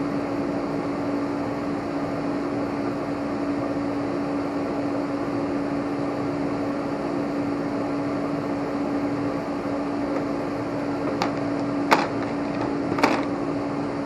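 Steady machine hum holding one steady tone, like a fan or other motor running. Near the end come a few sharp clicks, the two loudest a second apart.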